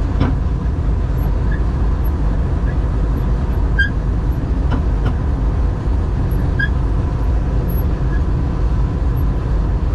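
John Deere 4400 combine running steadily: a deep, even engine and machinery rumble, with a few faint clicks on top.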